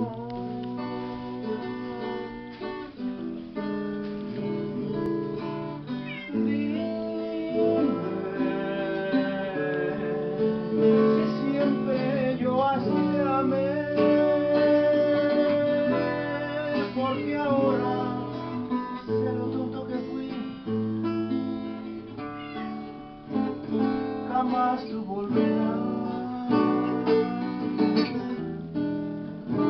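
Acoustic guitar strumming and picking a song intro. A higher melody line that bends and wavers in pitch plays over it for long stretches.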